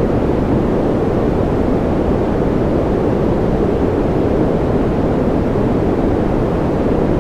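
Steady generated noise for sleep, a deep, even hiss with most of its weight low and little treble. It does not change at all, with no drops or clicks in it.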